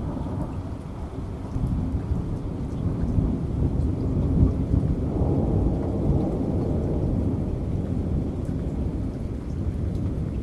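Long rolling thunder rumbling over steady rain, building a couple of seconds in and loudest around the middle, with faint raindrop ticks on top.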